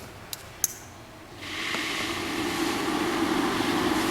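Two clicks of the switch on a water-based air purifier, then about a second and a half in its motor starts and the water in its bowl begins swirling: a steady rushing noise over a low hum.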